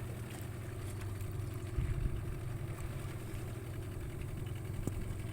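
Small fishing boat's engine running steadily at low revs: an even, low hum.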